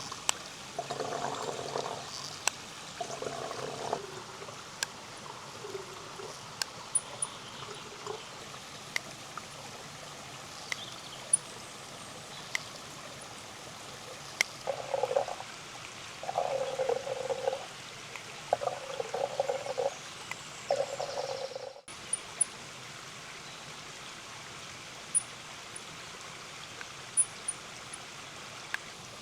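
A small stream running steadily, with short spells of water gurgling and pouring and scattered sharp clicks.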